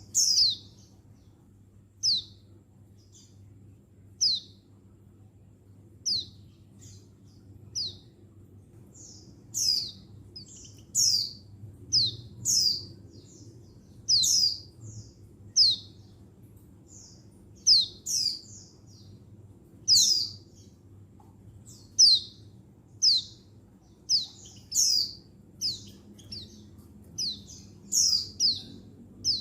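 Female white-eye (pleci) giving short, high call notes that slur downward, repeated every second or two and often doubled or tripled in quick succession. These are contact calls used to draw in a male.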